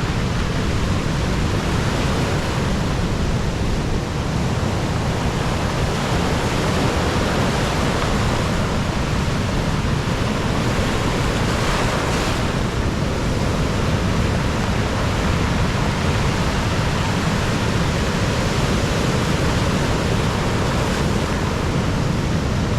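Stormy sea surf, waves surging and breaking with a louder break about halfway through, under a constant low rumble of strong wind on the microphone.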